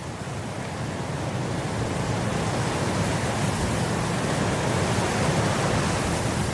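Wind blowing across grass: a steady rushing noise that swells into a stronger gust over the first two or three seconds and holds there.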